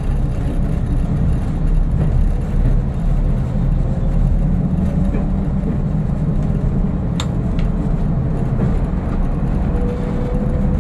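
Cab sound of a first-generation diesel multiple unit on the move: a steady low rumble from the underfloor diesel engine and running gear. A single sharp click comes about seven seconds in, and a faint tone rises slowly near the end.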